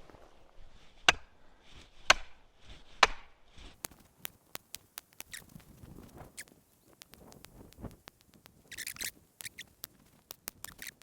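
Wooden stakes being driven into the ground with three sharp blows about a second apart, followed by lighter scattered clicks and a brief rustle near the end.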